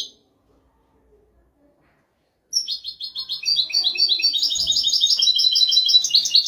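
European goldfinch singing: a short chirp right at the start, a pause of about two and a half seconds, then a fast, unbroken run of high twittering notes lasting about four seconds.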